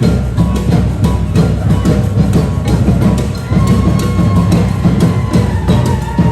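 Live parade percussion group drumming a steady, dense rhythm with heavy bass drums. A higher sliding tone joins about halfway through.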